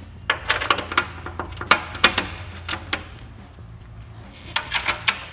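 Sharp metallic clicks in quick clusters, from a hand tool tightening the nuts on the leaf plow's carriage bolts, over a faint steady low hum.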